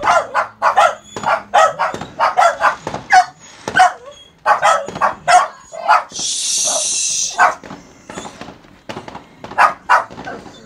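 A dog barking repeatedly in quick runs of short barks, with a steady hiss lasting about a second and a half midway through.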